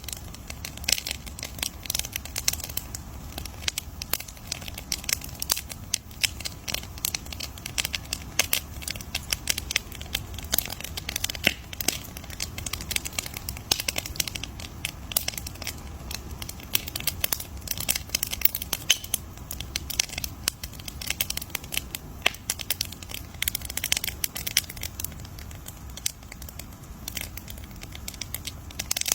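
Campfire crackling steadily, with many sharp irregular pops and snaps over a low rumble of burning.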